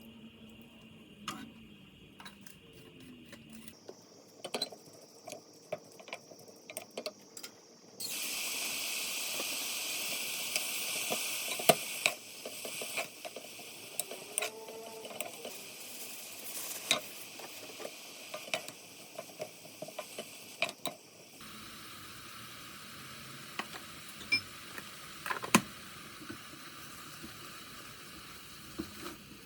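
Kitchen cooking sounds: food sizzling in a pan with a loud hiss for a few seconds near the middle, and many sharp clicks and knocks of utensils against cookware, in several short cuts.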